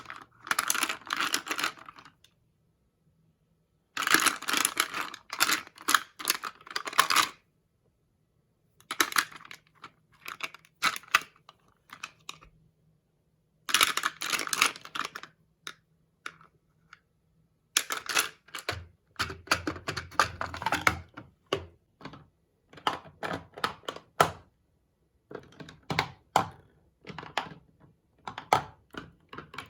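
Makeup items and their plastic cases being tapped, clicked and handled close to the microphone: rapid clusters of sharp clicks and scratchy rustles, in bursts of a few seconds broken by abrupt silences.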